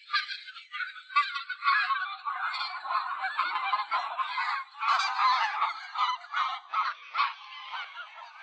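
A flock of wild geese honking, many overlapping calls at once.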